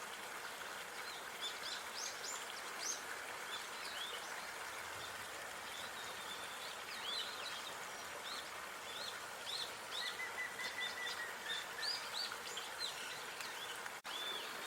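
Small birds chirping repeatedly over a steady outdoor hiss, with a fast, even trill about ten seconds in. The sound cuts out for an instant near the end.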